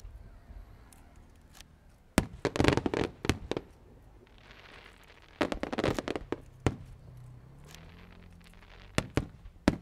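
Aerial fireworks bursting in three quick clusters of sharp bangs, a few seconds apart, with a crackling hiss from the shells between them.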